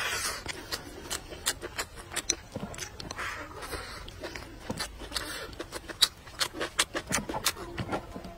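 Close-miked eating sounds: wet chewing and lip smacking, heard as many sharp, irregular clicks while a man chews braised pork and vegetables. There are brief sucking slurps at the start and again about three and five seconds in.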